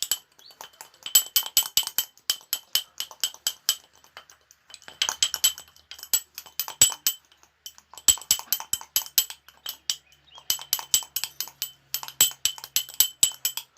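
Spoon stirring and mashing boiled egg yolk into ground biscuit powder in a small bowl: rapid clinking against the bowl in several runs of a second or two, with short pauses between.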